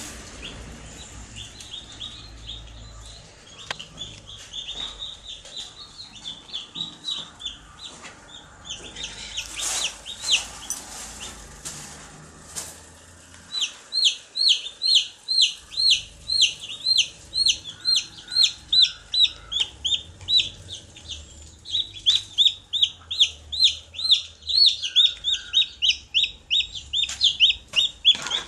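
Baby chicks peeping: a rapid string of short, high, downward-sliding chirps, softer at first and then loud and continuous at about three a second from about halfway. A brief rustle comes about ten seconds in.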